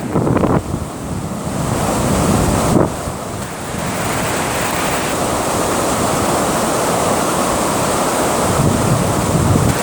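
Steady rush of water at a dam, with wind buffeting the microphone now and then.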